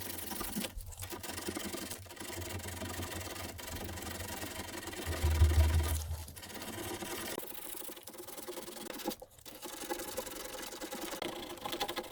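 Sandpaper rubbing over cured body filler on a car's rear body panel, in continuous sanding with a couple of brief pauses.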